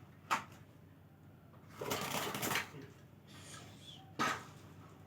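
Two sharp clicks about four seconds apart, with a short clattering rattle between them: handling noises.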